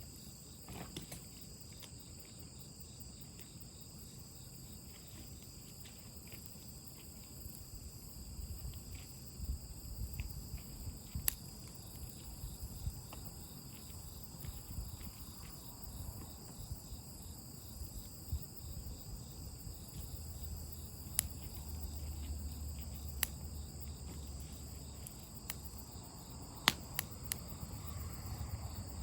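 Insects chirping steadily in several high pitches, with a low rumble and a few sharp pops and crackles from a wood campfire.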